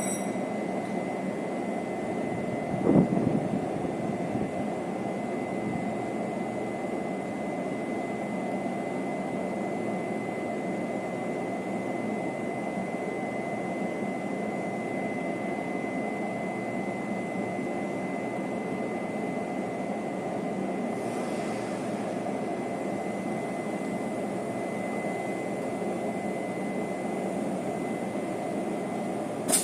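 Steady rumble of a diesel-hauled Chu-Kuang Express passenger train rolling through the station as it departs, with a single sharp knock about three seconds in.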